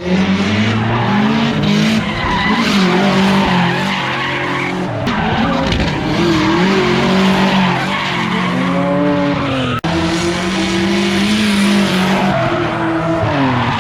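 Drift car driven sideways at high revs, engine note dipping and climbing again with throttle over a steady hiss of skidding tyres. A brief cut-out about ten seconds in.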